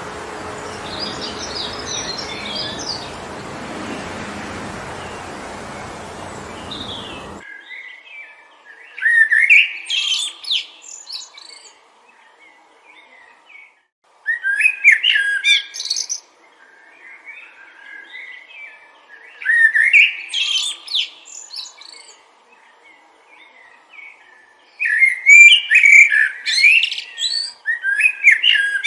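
Wind rushing through forest trees with a few faint bird chirps, cutting off suddenly after about seven seconds. Then a songbird sings four separate phrases, each about two seconds long, roughly five seconds apart.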